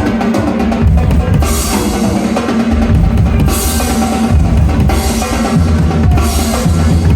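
Drum kit playing, with bass drum and snare to the fore, over sustained low bass notes in a full music mix.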